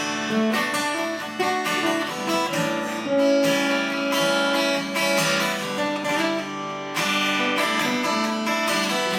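Acoustic guitar strumming chords in an instrumental break between sung lines of a song.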